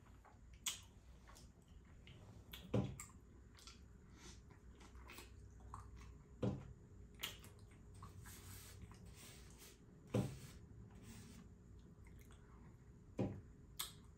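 Quiet eating sounds: chewing and wet mouth smacking of lemon sorbet and cookies, with a few sharp clicks spaced a few seconds apart.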